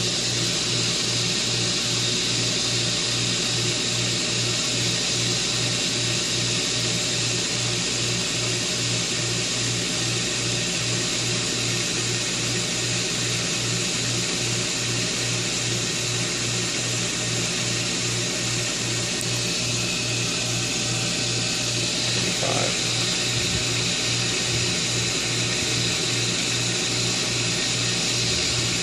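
Pool pump's electric motor running steadily, circulating water through the solar heater: an even hum with a fast, regular pulse in its low tone and a steady hiss above.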